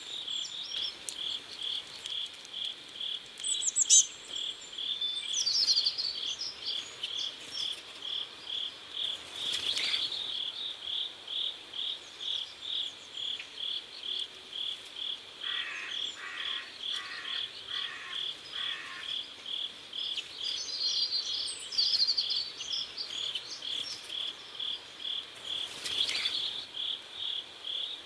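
Crickets chirping in a steady, even rhythm, about two chirps a second. A few short bird calls sound over them, and a separate run of five lower insect pulses comes about midway.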